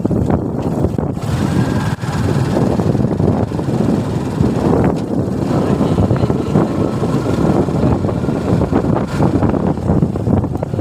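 Suzuki Gixxer motorcycle running at riding speed, engine noise mixed with wind buffeting the microphone; the sound dips briefly about two seconds in.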